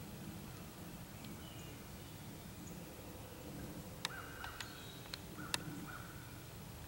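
Faint outdoor background with a short run of sharp clicks and two brief bird calls about four to six seconds in.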